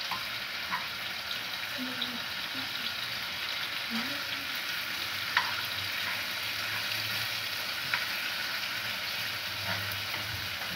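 Liver frying with tomatoes in a pan, a steady sizzle, as it is stirred with a metal ladle and fork that clink against the pan a few times.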